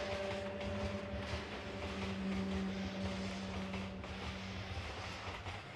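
Freight train of hopper wagons rolling past on the rails: a steady rumble of wheels with irregular clatter. A steady hum runs under it and fades out near the end.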